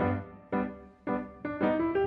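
Background piano music: single piano notes struck a few per second, each ringing and fading.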